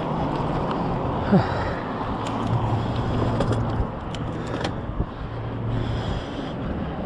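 Road traffic: cars running past in a steady wash of noise, with a low engine hum that comes and goes and a few light clicks.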